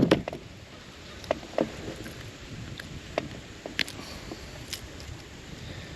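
Scattered light clicks and knocks, about half a dozen, from handling in a small bass boat, over a low steady rumble.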